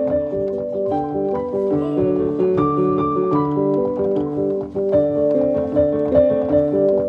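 Background piano music: a steady, continuously played melody of plucked-sounding piano notes.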